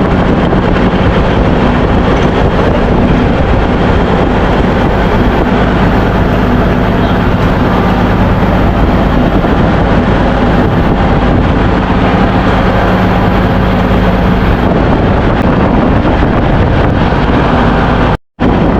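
Loud, steady din of a ship's engine-room machinery, with a constant low hum under the noise; it cuts out for a split second near the end.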